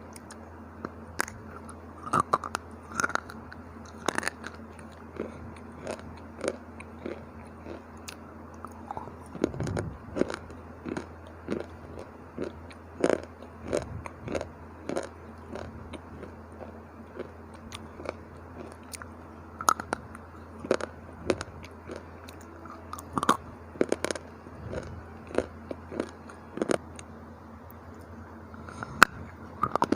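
Biting and chewing on dry, hard slate-bar chips, close to the microphone: a steady run of sharp crunches, roughly one every second, over a low steady hum.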